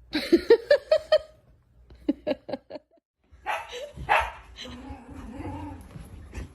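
A dog yipping: a quick run of about eight short, high barks, then about five more a second later. After a brief pause, quieter mixed sounds follow.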